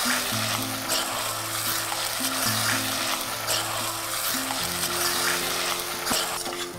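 Boneless chicken pieces sizzling in hot oil in a steel pressure cooker as a spatula stirs them, scraping the pot now and then.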